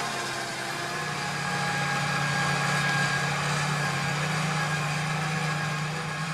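Six-cylinder diesel engine of a John Deere 8360R tractor running steadily while pulling a nine-furrow Lemken plough.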